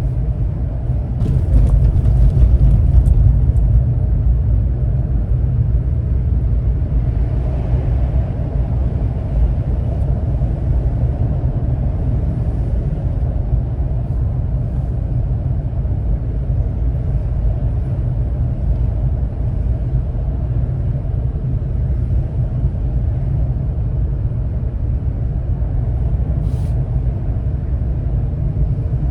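Steady low rumble of a car driving in slow traffic, swelling for a couple of seconds early with a few light clicks, and one sharp click near the end.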